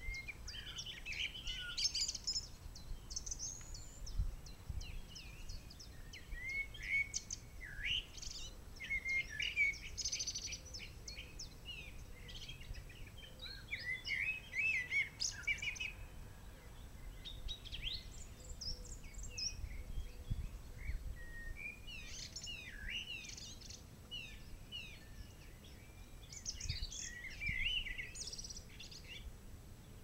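Several songbirds singing and chirping at once, overlapping high phrases coming in bursts with short lulls between them.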